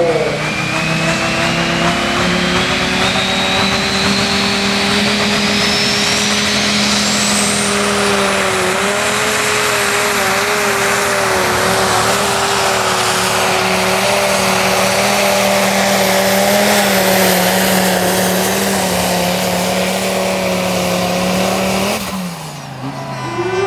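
Dingo pulling tractor's 2500 hp diesel engine running hard and steadily through a pull, with a high whistle climbing over the first several seconds. Near the end the engine pitch falls away as it comes off the throttle.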